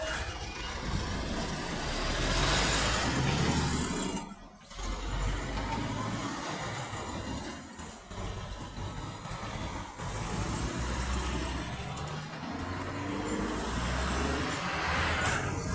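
Road traffic: trucks and cars passing, with a low engine rumble and tyre noise that swell and fade as vehicles go by.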